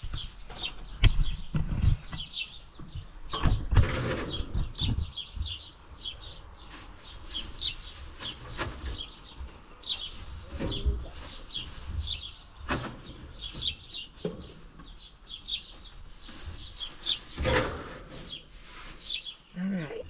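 Small wild birds chirping over and over in quick short calls, with scattered knocks and bumps, the loudest about a second, three to four seconds, and seventeen to eighteen seconds in.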